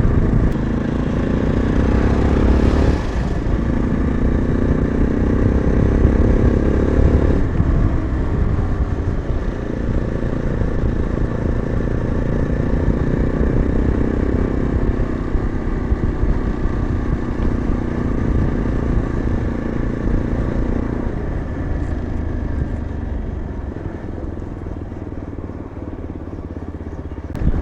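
Yezdi Adventure motorcycle's single-cylinder engine running under way: its pitch climbs, drops sharply at a gear change about three seconds in and again about seven seconds in, then holds fairly steady. Near the end the engine note sinks and quietens as the throttle eases off.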